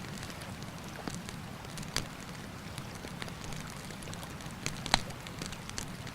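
Campfire crackling, with scattered sharp pops, the loudest about two and five seconds in, over the steady rush of a river.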